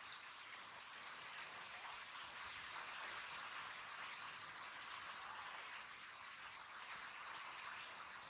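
Steady rain falling, a continuous hiss with a few short, high ticks scattered through it.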